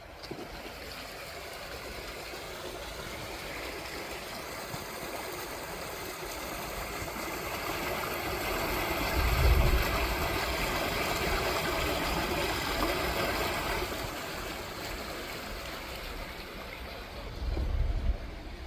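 Running water, a stream rushing, swelling louder through the middle and then easing off. There are low thumps about halfway through and again near the end.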